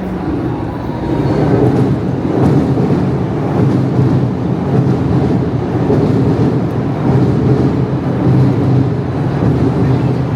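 Loud, steady rumble of vehicles passing close by, swelling about a second in.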